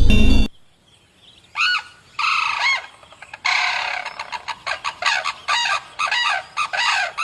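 Chicken clucking and cackling: a few longer calls, then a quick run of short calls. Music plays briefly at the start and cuts off about half a second in.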